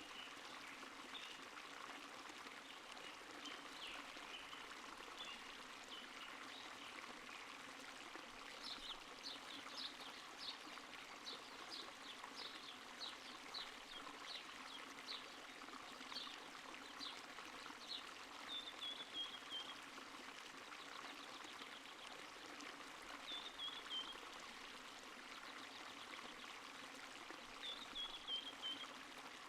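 Small stream trickling and babbling steadily, with a run of short high chirps at about two a second through the middle and three brief falling calls later on.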